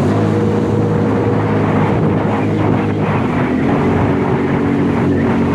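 Jet ski engine running steadily at speed over a rushing hiss of water and wind; its note shifts slightly about three seconds in.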